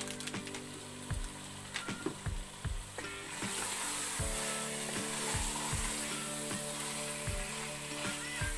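Fish curry frying in oil in a pot, sizzling, louder from about three seconds in as it is stirred with a wooden spoon. Soft background music with a steady beat plays under it.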